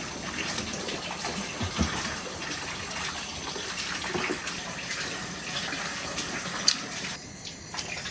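Heavy rain falling steadily, an even hiss, with a few faint clicks and one sharp tick near the end.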